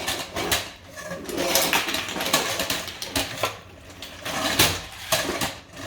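Hard plastic toy pieces clattering and clicking, a series of light knocks as the toy truck crashes.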